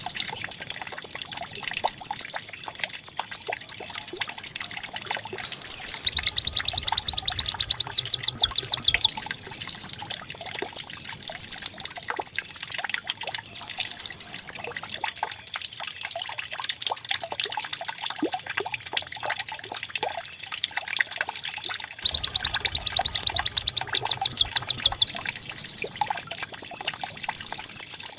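White-eye (pleci) song played as a lure recording: loud, canary-like bouts of rapid high trilled notes alternating with looping whistled phrases, repeated at regular intervals. From about 15 to 22 s the song drops to softer, scattered chirping before a loud bout starts again.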